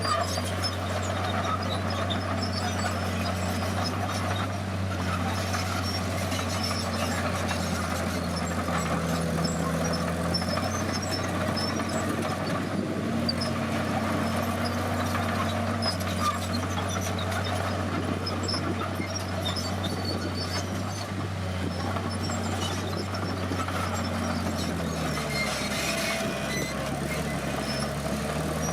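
Komatsu D50PX bulldozer's diesel engine running steadily under work, its pitch dipping and rising back near the end.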